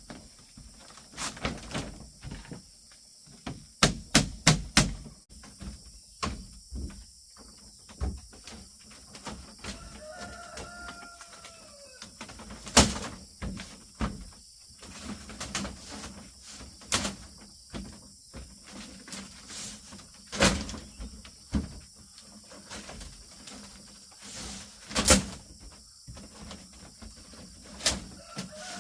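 Irregular sharp knocks of tool work on bamboo, with a quick run of four about four seconds in and a few louder single strikes later, over a steady high insect drone. A short animal call with a falling pitch comes near the middle.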